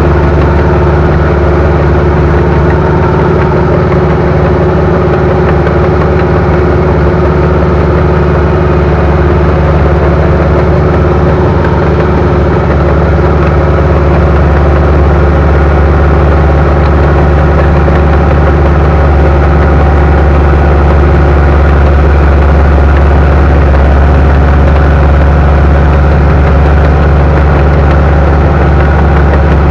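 Bulldozer's diesel engine running steadily close by, with a low, even drone.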